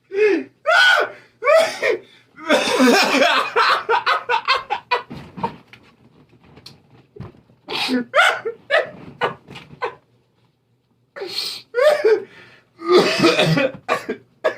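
A man laughing hard in bursts, broken by coughing and breathless gasps, with a short pause about two thirds of the way through.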